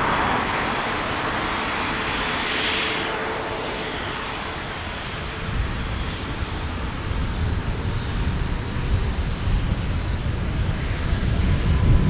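Airbus A350-900's Rolls-Royce Trent XWB jet engines at takeoff thrust. A high jet hiss falls in pitch as the aircraft passes, then a deep, uneven rumble builds through the second half.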